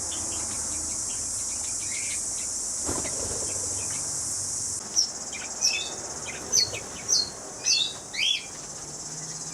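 A steady, high insect drone that cuts off suddenly about five seconds in, followed by about six short, sharp bird chirps in the aviary.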